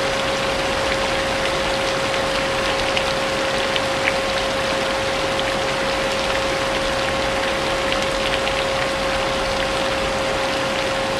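A vacuum cleaner running steadily with a constant motor whine, mixed with the even hiss of falling rain and a few faint drop ticks.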